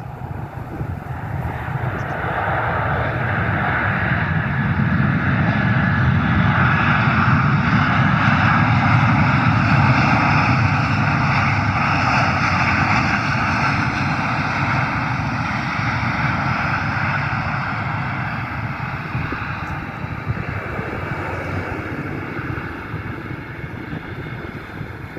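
An airplane's engines heard as it flies past: a broad engine noise that builds over several seconds, peaks about midway, then slowly fades away.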